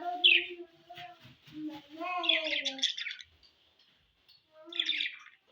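Budgerigars chirping in short high bursts, three clusters about a second or two apart, over a drawn-out, voice-like sound in the first half.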